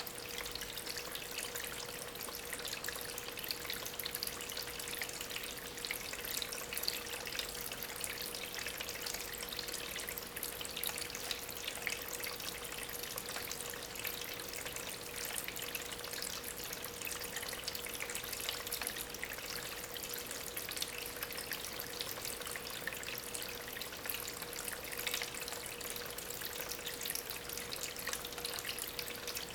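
Water from a small homemade rock waterfall, driven by an aquarium pump, trickling and splashing over stones in a steady, bright patter of small drips. A faint steady hum sits underneath.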